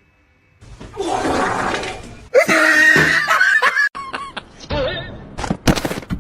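A noisy crash like something breaking, followed by people shrieking and laughing.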